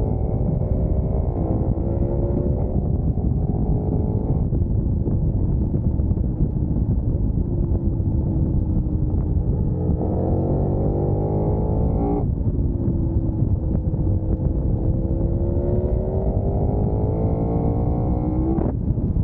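KTM 1290 Super Duke R's V-twin engine pulling hard under acceleration, its pitch climbing steadily and dropping sharply at two upshifts, about twelve seconds in and near the end. Heavy wind rush runs underneath.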